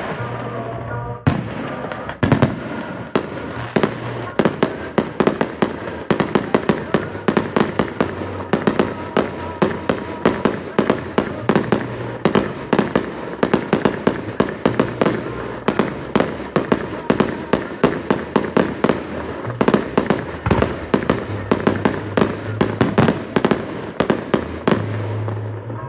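Fireworks going off in a rapid barrage of sharp bangs and crackles, several a second.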